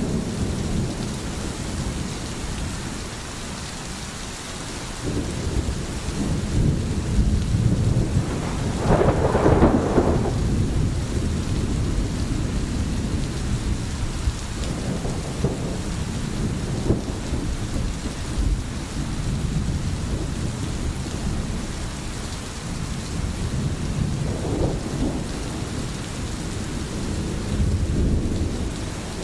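Steady rain falling, a constant hiss, with irregular low rolling rumbles underneath; the strongest rumble swells about nine seconds in, and smaller ones come near the middle and toward the end.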